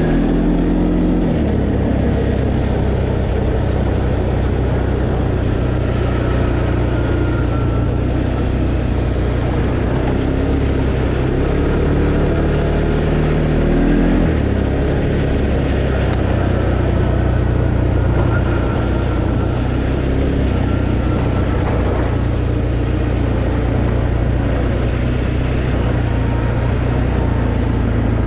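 2020 Arctic Cat Alterra 700 ATV's single-cylinder engine running steadily while riding. Its engine note shifts about a second in and again around halfway through.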